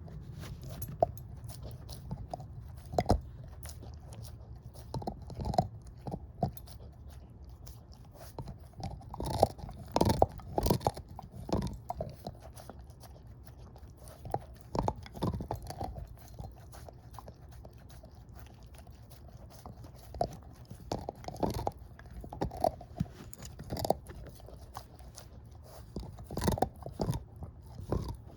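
Shepherd-mix dog chewing a bone: irregular clusters of loud crunches and cracks with short pauses between, over a low steady hum.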